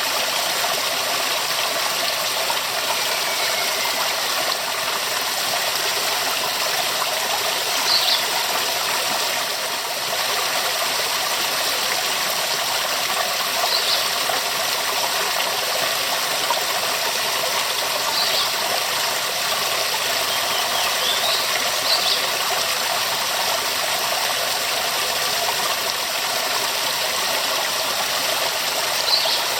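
Waterfall: a steady, full rush of falling water. A short high chirp cuts through it every few seconds.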